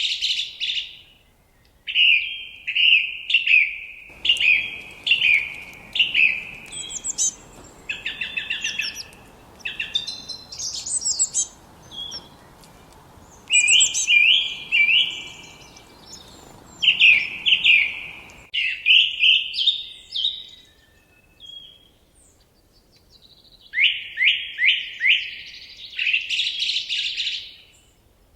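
Forest songbirds singing: phrases of quick, repeated downward-sweeping whistled notes, with higher chirps mixed in. A faint steady hiss runs beneath the middle part of the song, starting and stopping abruptly.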